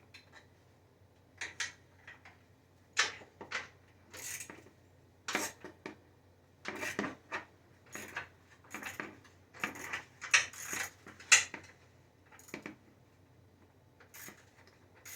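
Metal sockets and hand tools clinking and rattling as they are handled, in irregular clusters of sharp clatters with short pauses between.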